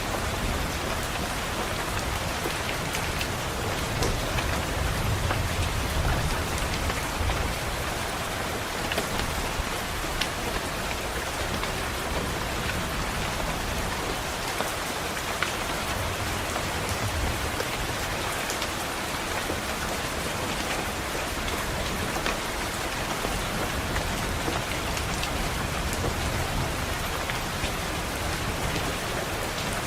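Steady rain on a window, an even hiss with scattered sharp drop ticks, and a low thunder rumble swelling a few seconds in and fading, with fainter rumbles later.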